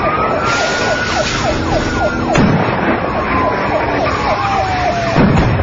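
Police siren wailing, rising over the first second and then slowly falling, with a faster repeating siren sweep beneath it, over steady vehicle and road noise. Two sharp bangs cut through, about two and a half and about five seconds in.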